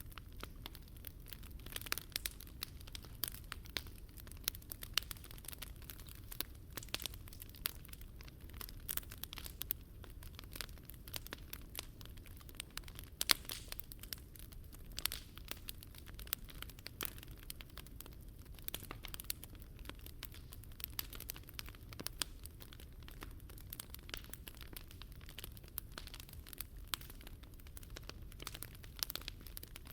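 Wood fire crackling, with many irregular sharp pops and snaps over a steady low hiss.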